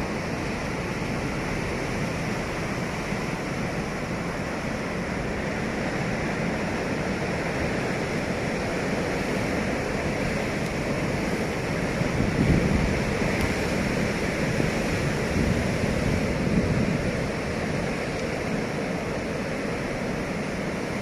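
A steady rushing noise with no rhythm or clicks, swelling slightly about halfway through.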